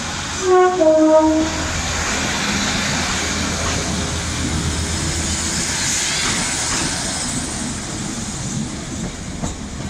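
Northern diesel multiple unit sounding a two-tone horn about half a second in, a higher note then a longer lower one, then passing close by along the platform with a steady rumble of engine and wheels.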